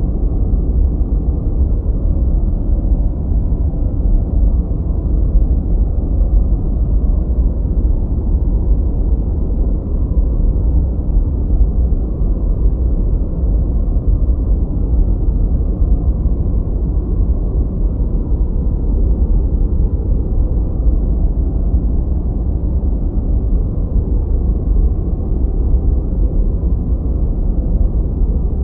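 Continuous generated noise for masking and focus, steady and unchanging, deep and rumbling with no high hiss, closer to brown noise than to true white noise.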